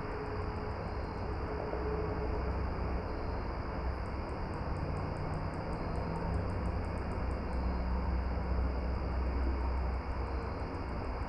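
Steady outdoor ambience at dusk: an even hiss over a low rumble. A fast, high-pitched ticking of about six ticks a second comes up for a few seconds in the middle.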